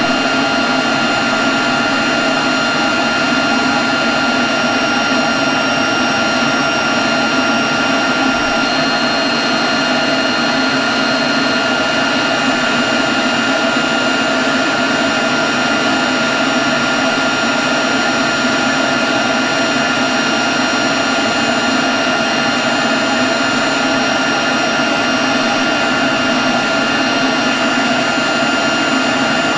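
Leaf blower running at a constant speed: a steady rush of air with a high whine over it.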